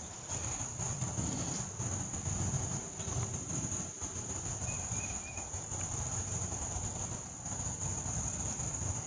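Steady insect chorus, a continuous high-pitched shrill, over a low steady rumble.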